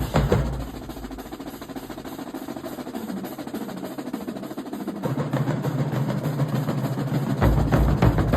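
Marching band drumline: the loud drum beat drops away at the start to quieter rapid drumming, low drums come back in about five seconds in, and the full loud beat returns near the end.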